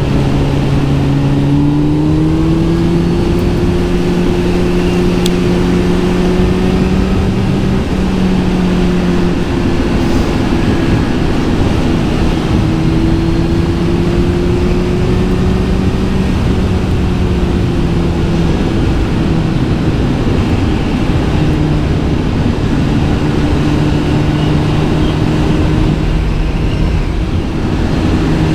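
Kawasaki Z900 SE's inline-four engine running through an SC-Project S1 slip-on exhaust while riding at fairly steady revs. The pitch rises a little about two seconds in, then holds with small rises and dips, over rushing wind noise.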